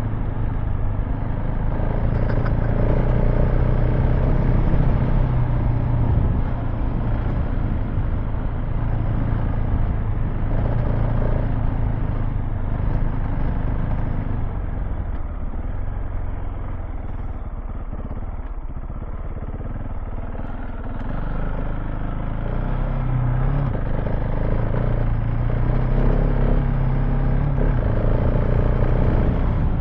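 KTM 690 Enduro R's single-cylinder engine running as the motorcycle is ridden off-road, its throttle rising and falling; it eases off for a few seconds a little past the middle and then picks up again.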